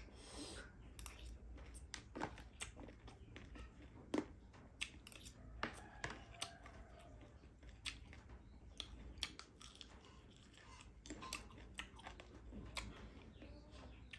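Close-up mouth sounds of someone chewing spicy Nepali chatpate, a puffed-rice street snack. There are soft repeated chewing noises with short sharp crunches and mouth clicks scattered throughout. The chatpate has already gone somewhat soft.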